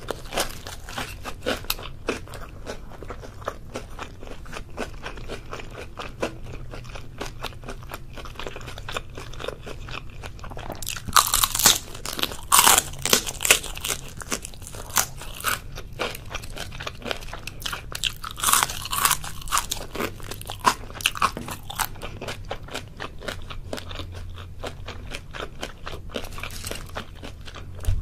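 Crisp tempura batter crunching and being chewed in the mouth, a steady run of crackly crunches, with two louder spells of crunching bites about eleven seconds in and again about eighteen seconds in.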